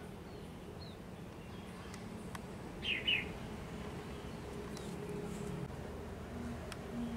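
A small bird chirps twice in quick succession about three seconds in, with a few fainter chirps before it. A metal spoon clicks lightly against the clay pot a few times over a low steady hum.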